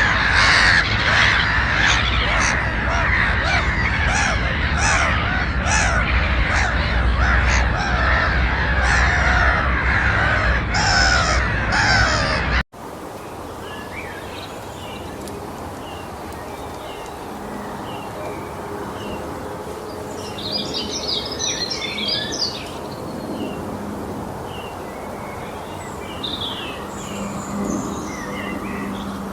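A large flock of birds calling over one another in a loud, dense, harsh chorus, cut off abruptly about a third of the way in. It is followed by quieter outdoor background noise with scattered short bird calls, a busier burst of them roughly two-thirds of the way through.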